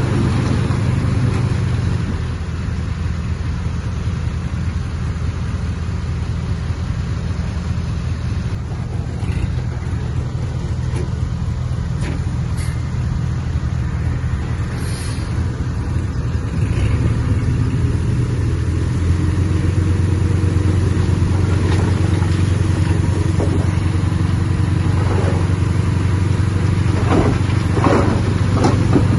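Heavy diesel earthmoving machinery running under load with a steady low engine drone that eases off about two seconds in and grows louder again past the midpoint. A few sharp knocks come near the end.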